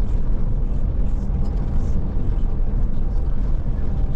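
Scania Touring coach driving along the road, heard from on board: a steady low engine drone with road and tyre noise.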